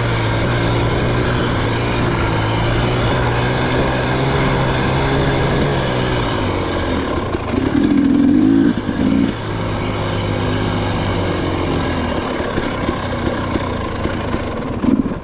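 Dirt bike engine running at steady revs under way on a trail, opened up hard for about two seconds near the middle with the pitch rising, then settling back to a lower steady note, with a brief rev again near the end.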